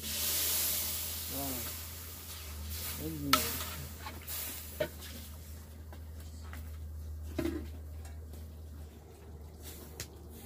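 Food frying in hot oil in a pan: a loud burst of sizzling in the first two seconds that dies back to a quieter sizzle. A few sharp clicks and knocks land over it, the loudest a little over three seconds in.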